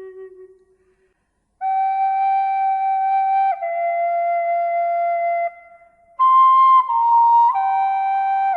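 Slow, calm melody of long held notes on a flute-like wind instrument. A low note fades out at the start, there is a moment of silence, and then each note is held a second or two and steps to the next, with a brief break near the middle.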